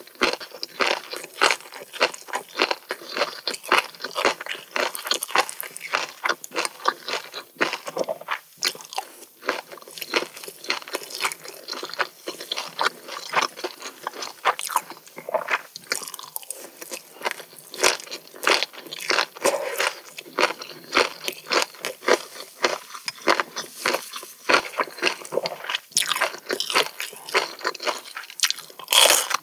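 Close-up eating sounds of chewing crunchy hijiki seaweed: a steady stream of crisp, wet crunches and bites, with one louder crunch near the end.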